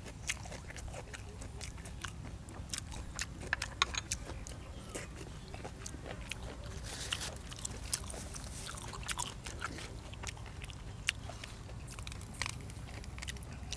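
A person eating close to the microphone: chewing and biting, with frequent small crunches and sharp clicks over a steady low hum.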